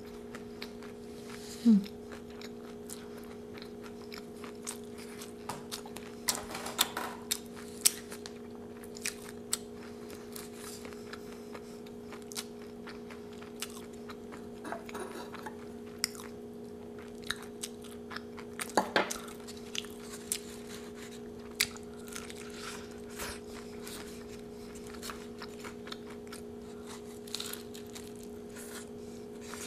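Close-miked chewing and crunching of a tortilla wrap filled with crushed Doritos, heard as scattered sharp clicks and a few longer, louder crunches. A steady low hum runs underneath.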